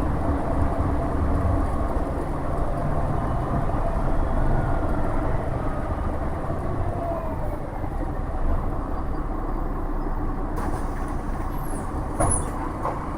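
Interior of a MAZ-107.466 bus driving, its Mercedes-Benz OM 906LA inline-six turbodiesel running with a steady low rumble and a whine from the driveline that falls in pitch as the bus slows. Near the end a hiss of compressed air starts suddenly, followed by a few sharp clicks.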